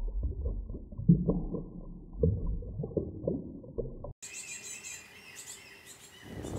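A muffled, low rumbling sound with irregular pulses cuts off abruptly about four seconds in. It gives way to faint birds chirping, and a steady rushing noise swells in near the end.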